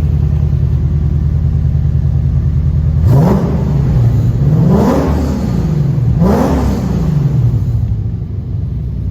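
Lexus IS F's 5.0-litre V8, fitted with PPE headers and a PTS Joe Z exhaust, idling and then revved three times about a second and a half apart. Each rev climbs quickly and drops back before the engine settles to idle again.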